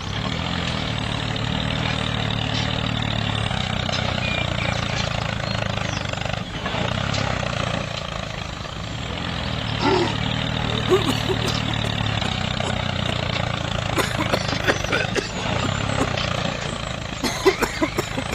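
Mini tractor's small engine running steadily with a low hum. It dips briefly about six and a half seconds in, and a few sharp clicks come near the end.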